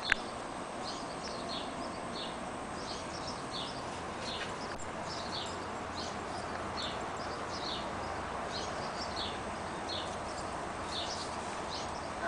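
A bird chirping over and over, short high chirps about every half second to second, over a steady outdoor background hiss.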